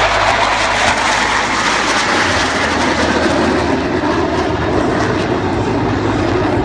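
Jet engine noise from the Black Eagles' KAI T-50B Golden Eagle jets flying an aerobatic loop: a loud, steady rush whose pitch drops lower a couple of seconds in.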